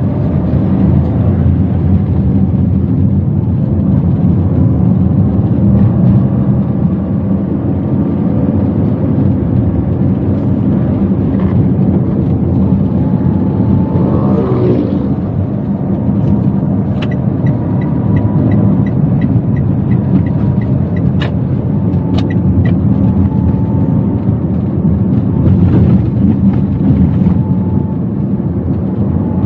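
Steady low road and engine rumble heard from inside a Toyota Wigo's cabin while driving. About halfway through a brief wavering tone rises over it, and a little later comes a run of evenly spaced ticks, about three a second, lasting several seconds.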